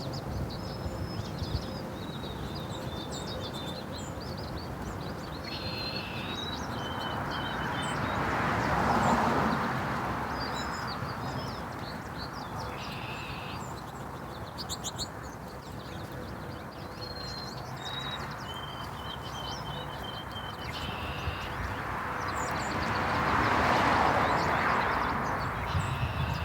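Small birds chirping and calling on and off throughout, in short repeated phrases and brief trills. Twice, about nine and twenty-four seconds in, a broad whooshing noise swells up and fades away over several seconds, louder than the birds.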